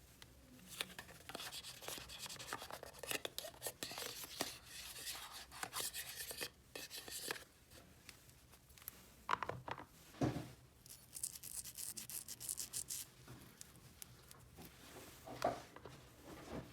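Hands handling small plastic toy pieces: a run of light clicks, taps and scraping, with a longer rubbing or tearing hiss about two-thirds of the way through and a few louder knocks.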